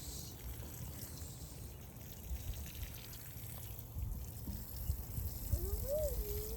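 Water pouring and trickling onto the plants as they are watered. Near the end comes a brief whistle that rises and falls in pitch.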